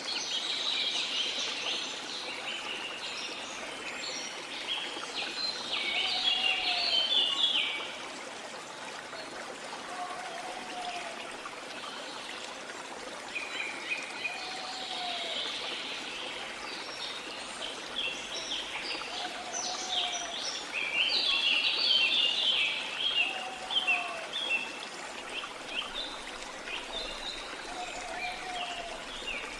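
Songbirds chirping and singing in busy bouts over a steady wash of water. A short low call note repeats every three seconds or so.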